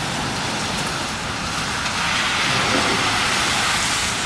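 Heavy rain pouring down steadily, a little louder from about two seconds in.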